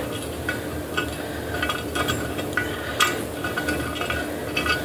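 Small metal clicks and clinks of a washer and nut being fitted by hand onto a brass-plated toilet tank bolt, scattered irregularly, the loudest about three seconds in.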